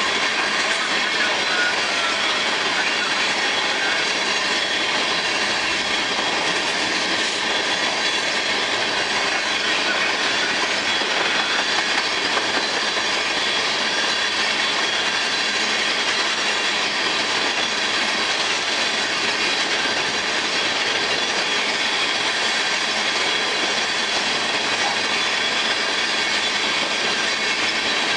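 Freight train of empty oil tank cars rolling past: a steady, unbroken rumble and clatter of steel wheels on rail, with faint high wheel squeal over it.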